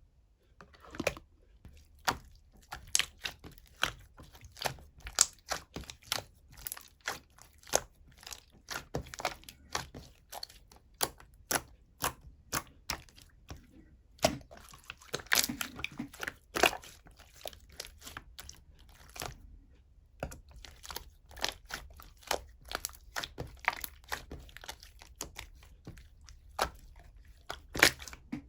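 Light-green marbled, jelly-textured slime being squished and stretched by hand, giving irregular wet pops and clicks, several a second, with a brief pause about twenty seconds in.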